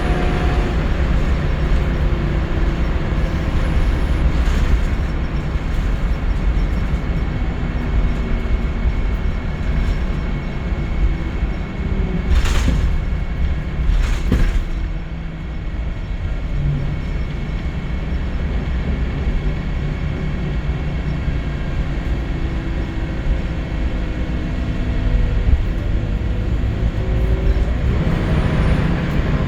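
Scania L94UB Wright Solar single-deck bus heard from on board: the engine running and pulling through its gears, its pitch rising and falling over a steady low rumble. Two short hisses come a little under halfway through.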